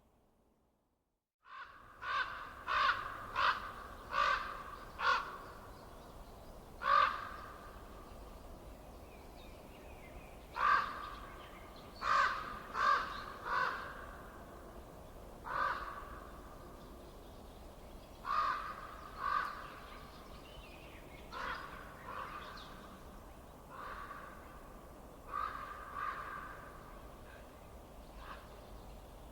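Harsh bird calls repeated in runs of two to four, about twenty in all, over a faint steady hiss. They begin abruptly after a second and a half of silence.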